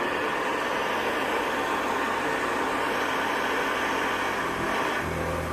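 1973 Hoover Convertible upright vacuum cleaner running steadily, its motor whirring with the beater bar brushing the carpet. About five seconds in, a deeper hum joins.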